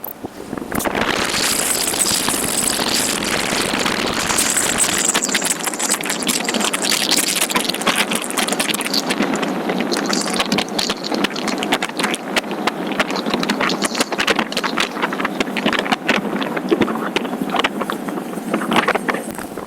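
Motorcycle on the move: engine running under a loud, steady rush of noise. The noise builds about a second in and falls away just before the end.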